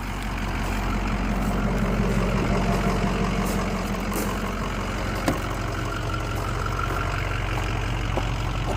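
Ford F-250's Power Stroke V8 turbo-diesel running steadily, with one light click about five seconds in. A cylinder-contribution code has flagged cylinder 8, though the owner says it doesn't seem to run any different.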